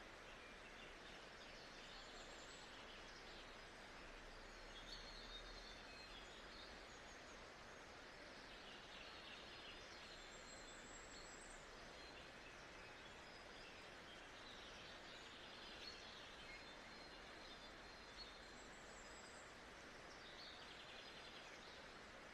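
Faint nature-sound ambience: a steady, even hiss with birds chirping softly on and off.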